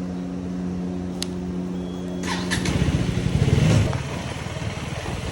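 KTM Duke 250's single-cylinder engine running at a steady low speed, then revving up about halfway through as the bike accelerates. It is loudest a second later, then eases back. A few sharp clicks come just before the rev.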